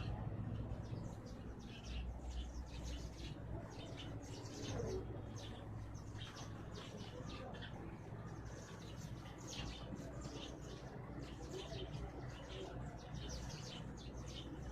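A group of house sparrows chirping: many short chirps overlapping throughout, over a low steady hum.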